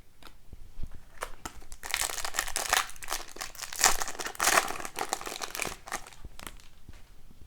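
Foil wrapper of a hockey card pack crinkling as it is handled, after a few light clicks in the first second or two.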